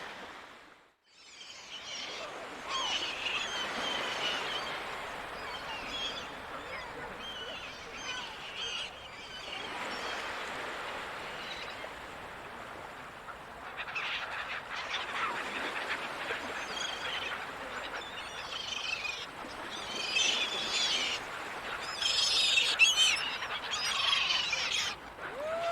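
Seagulls calling again and again over a steady hiss of open-air background noise, with the calls loudest and most crowded near the end. The sound drops out briefly about a second in.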